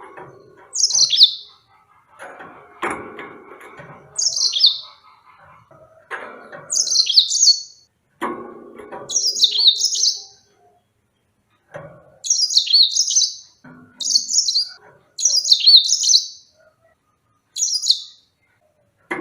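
Yellow-fronted canary singing: short, high phrases that sweep down in pitch, repeated every second or two. Lower, noisier sounds come between the first few phrases.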